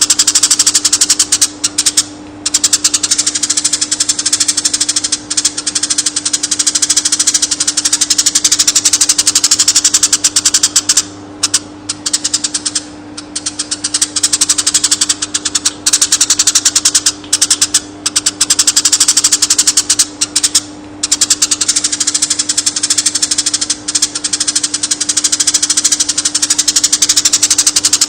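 Konin bird singing a very rapid, chattering trill in long runs broken by brief pauses, over a steady low hum.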